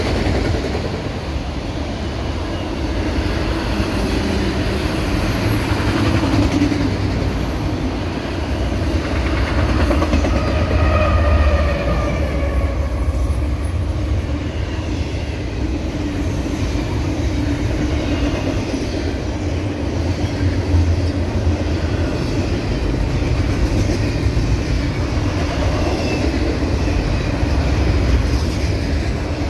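Freight cars rolling past at close range, autoracks and then double-stack container well cars: a steady rumble of steel wheels on the rails, with a faint high wheel squeal about a third of the way in.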